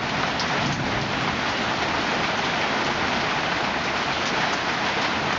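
Steady rain falling, an even continuous hiss of drops.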